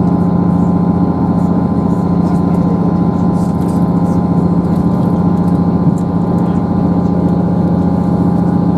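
Diesel train's underfloor engine running with a steady drone, heard from inside the carriage.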